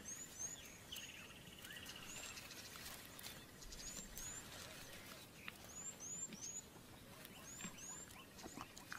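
Faint bush ambience with small birds chirping: short high chirps in twos and threes, and a brief trill about a second in, over a soft background hiss with a few light clicks.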